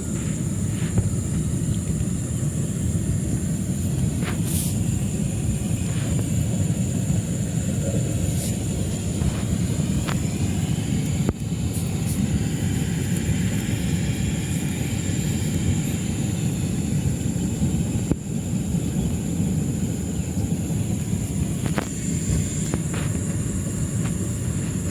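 Steady low outdoor rumble, with a thin, steady high-pitched whine above it and a few faint clicks.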